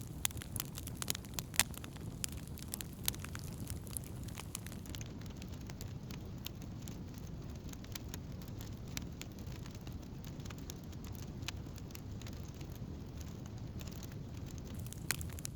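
Wood campfire burning: frequent sharp crackles and pops of burning wood over a steady low rumble of the flames, with the pops thickest in the first few seconds and again near the end.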